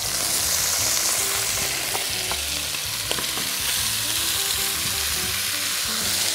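Pieces of pork rib frying in hot oil over high heat, a steady sizzle that is strongest about a second in. A few light taps of a utensil against the pan can be heard as the meat is stirred.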